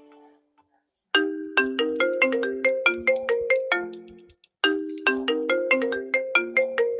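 Samsung Galaxy phone ringtone: a short melody of quick, bright notes that fade fast, starting about a second in and played through twice.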